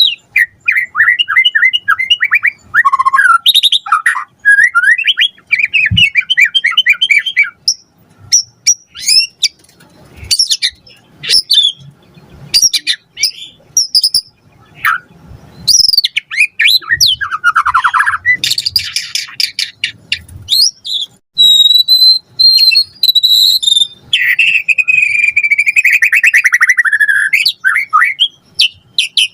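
White-rumped shama singing a loud, varied song: quick runs of short whistled notes, sharp clicks, sweeping whistles, a falling trill and a long buzzy rattle near the end.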